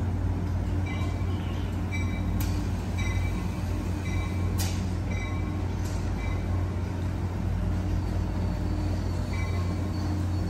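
Amtrak Capitol Corridor train standing at the platform, its F59PHI diesel locomotive giving a steady low hum. A short high ringing tone repeats about every 0.7 seconds over it, with a few sharp clicks.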